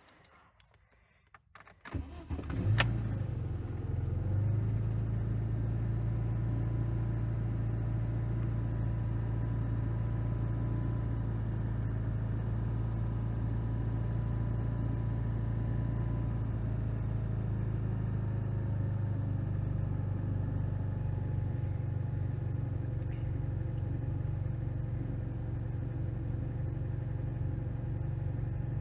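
MeMZ 307 four-cylinder petrol engine under MIKAS 11 fuel injection being started from cold. A few clicks come first, then it cranks and catches about two seconds in, flares up briefly and settles into a steady idle.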